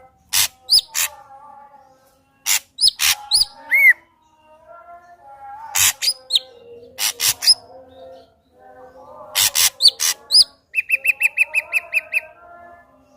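Ashy drongo singing a varied song: sharp whip-like notes and hooked upward whistles mixed with low warbling phrases, then a fast, even trill of about seven notes a second near the end.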